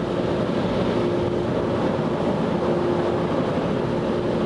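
Automatic car wash air dryer blowers running, a steady rush of blown air with a constant hum, heard from inside the car.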